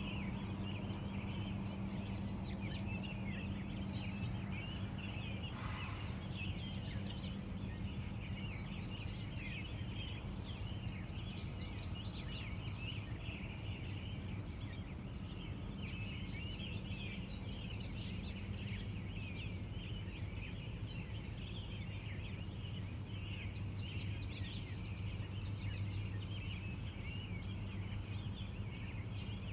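Morning chorus of many wild birds chirping and trilling over one another, with a steady low hum underneath.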